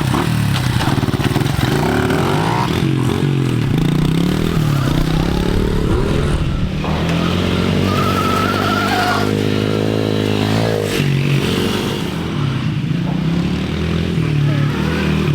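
Dirt bike engines running under way, their pitch rising and falling as the throttle opens and closes, with a steadier stretch of cruising partway through.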